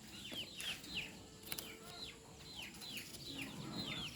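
A bird chirping over and over: short calls that each drop quickly in pitch, coming in twos and threes, a few every second.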